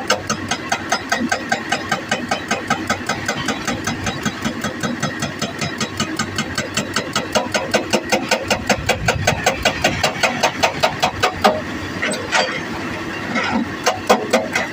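Hydraulic rock breaker on a JCB 205 excavator hammering rock in a rapid, even rhythm of about six blows a second, over the excavator's diesel engine. The hammering pauses briefly about twelve seconds in, leaving the engine running, then starts again near the end.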